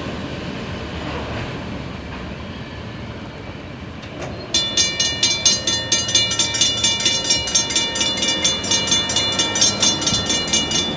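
Freight train of covered hopper cars rolling away with a steady rumble. About four and a half seconds in, a rapid, even ringing ding starts, about three strikes a second, louder than the train.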